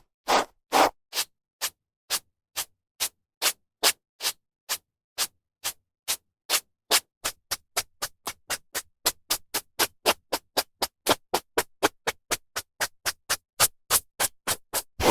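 Hairbrush bristles drawn through hair in quick, repeated short strokes with brief gaps between them. The strokes quicken to about four or five a second midway, then slow and grow louder near the end.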